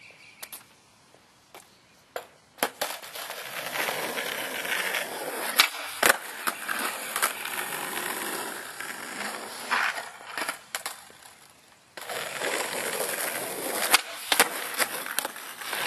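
Skateboard wheels rolling on a concrete driveway, broken by sharp cracks of the tail popping and the board landing flip tricks. The rolling stops about ten seconds in, then starts again about two seconds later with more pops and landings.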